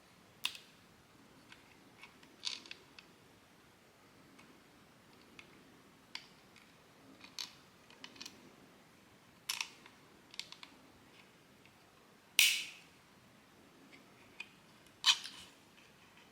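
3D-printed plastic parts being handled and fitted together by hand: about a dozen irregular sharp clicks and snaps, the two loudest coming in the last few seconds.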